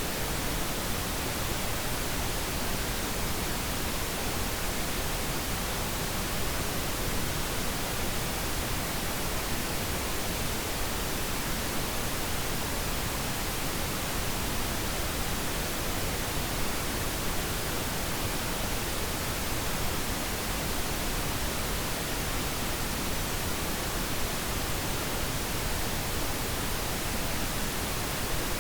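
Pink noise: a steady, even hiss with no change in level.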